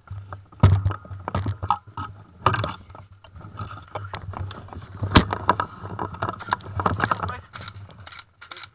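Irregular knocks, clicks and rustling of handling noise close to a gun-mounted camera, with sharp knocks about a second in and about five seconds in, over a low steady hum.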